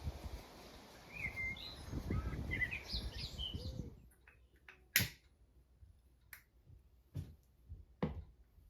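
Birds chirping over a steady background noise, which stops abruptly about halfway through. Four sharp clicks or knocks follow in the quiet, roughly a second apart, the first the loudest.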